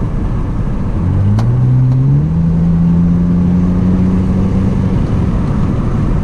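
Hyundai Azera V6 engine and exhaust heard from inside the car with the windows down: the pitch rises as the car accelerates about a second in, then holds steady for a few seconds over road noise. The rear silencers are loosened to leave a finger-wide gap, which lets more exhaust note through.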